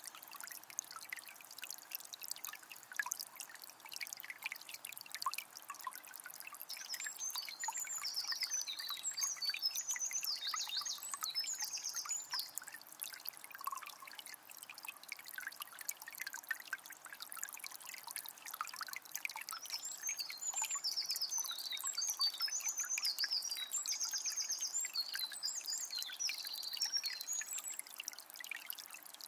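Shallow forest river trickling and gurgling steadily over stones, full of small splashes. A songbird sings two long runs of quick high notes, one about a quarter of the way in and another in the second half.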